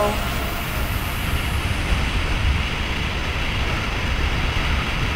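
Steady rumble of wind and road noise from a moving motorcycle on a highway, with no distinct engine note.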